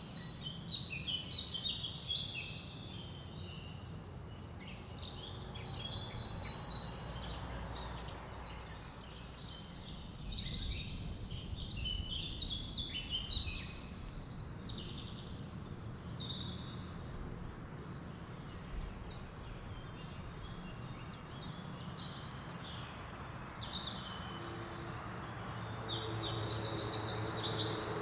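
Forest songbirds chirping and singing, several short calls overlapping, over a low steady background noise. Near the end one bird sings a louder, rapid trill of repeated notes.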